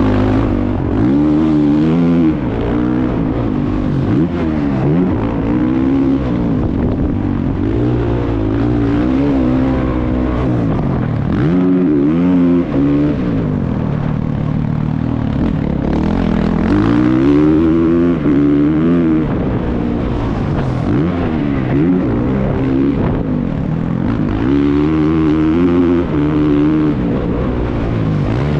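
Motocross bike engine revving hard and easing off again and again, its pitch rising and falling every couple of seconds.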